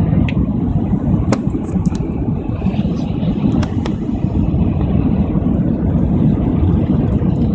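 Steady low roar of an airliner heard from inside the passenger cabin: engine and airflow noise, with a few faint clicks.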